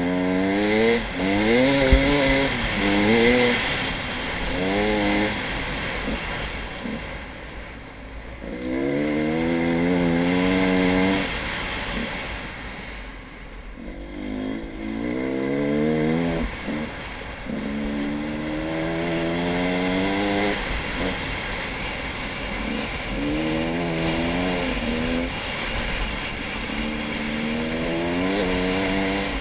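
Motor vehicle engine revving up again and again, in about six bursts of two to five seconds, each rising in pitch and then dropping away.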